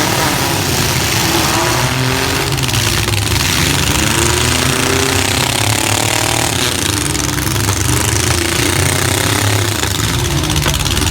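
Several compact pickup truck engines running at once, revving so their pitch rises and falls over and over, above a steady low drone.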